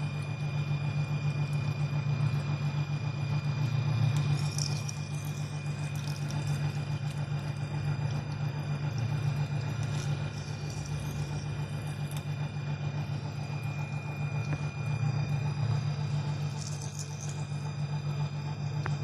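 Metal lathe running under power cross feed while a parting-off tool cuts through a steel hydraulic cylinder part: a steady low machine hum with a thin steady high whine. Brief high wavering squeaks come from the cut three times.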